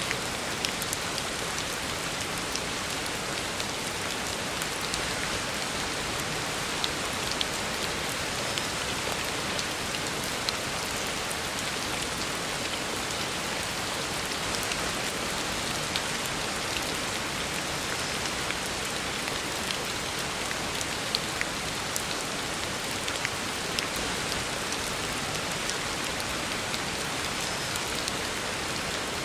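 Heavy rain falling steadily on a road surface, with a continuous hiss and scattered louder drop splashes.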